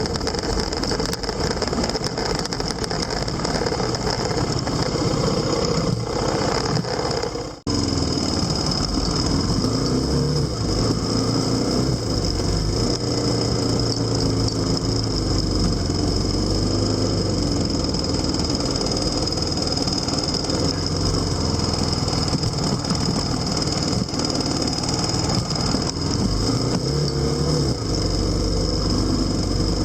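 Vehicle engine running on the move with steady wind rush, its pitch rising and falling as the speed changes; the sound drops out briefly about seven and a half seconds in.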